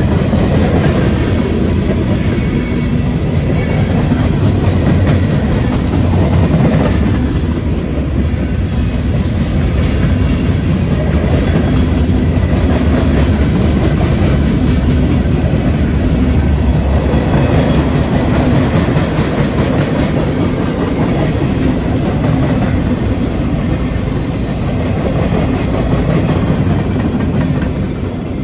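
Freight train cars (boxcars, gondolas and tank cars) rolling past close by, steel wheels clicking over the rail joints in a steady, continuous run.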